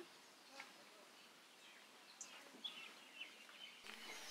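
Near silence: faint outdoor ambience with a few short, high bird chirps.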